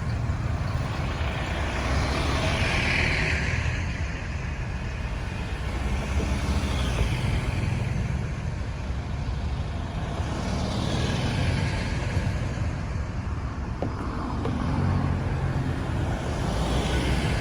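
Busy road traffic: a steady low rumble of engines and tyres, with vehicles passing by three times, each swelling and fading.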